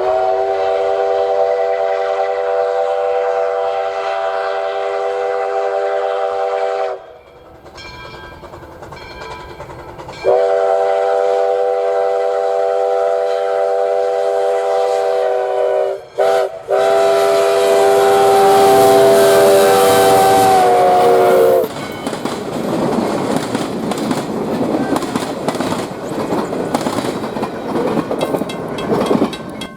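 Steam locomotive #148, a 4-6-2 Pacific, blowing its steam whistle in the long, long, short, long grade-crossing pattern. The loud noise of the passing train follows: running gear and cars clattering over the rails.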